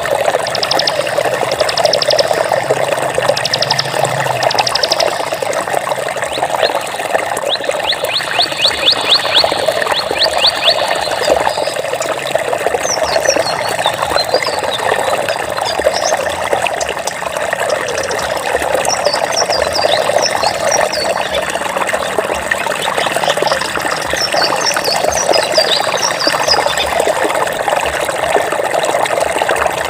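Water flowing steadily. Over it come short, rapid clicking trills in the first ten seconds, then quick high chirps from about twelve seconds on.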